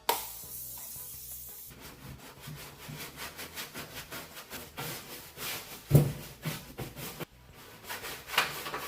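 Scrubbing mud and dirt off a pickup truck's wheel well and underside: a quick run of rubbing strokes after a short hiss at the start, with one sharp knock about six seconds in.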